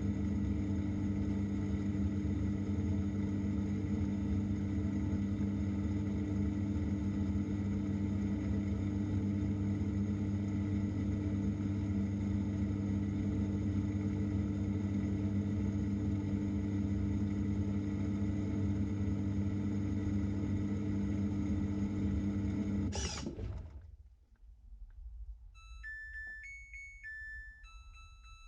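Samsung 6.5 kg top-load washing machine in its final spin, a steady motor hum heard from inside the drum, which stops abruptly about three-quarters of the way through. A few seconds later the machine's electronic end-of-cycle tune begins, a run of stepped beeping notes.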